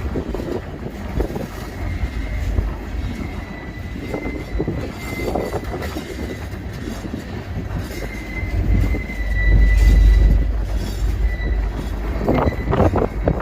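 Freight train rolling past with a steady low rumble and a thin, high wheel squeal held throughout. The rumble swells loudest about two-thirds of the way through.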